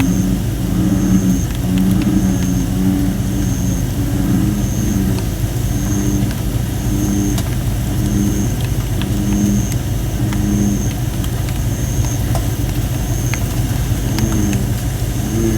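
Campfire of thin, not fully dried red robin (Photinia) wood crackling with scattered sharp pops, over American bullfrogs calling in repeated low, droning notes. A short high note repeats about once a second.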